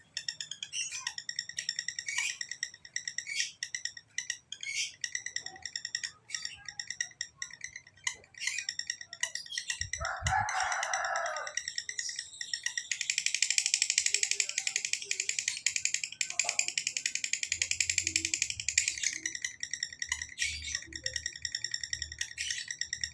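Lovebird singing in fast, sharp, high chirps that run together, breaking into one unbroken chattering trill about 13 s in that lasts some six seconds: the long 'ngekek' trill kept up without a break that fighter lovebirds are prized for. A short lower rasping sound comes about ten seconds in.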